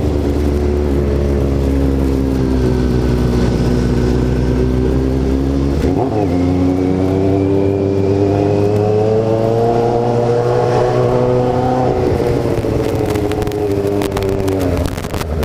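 Kawasaki Z750 inline-four motorcycle engine under way, its pitch rising and falling with the throttle. There is a short break about six seconds in, then the revs climb for several seconds before easing off.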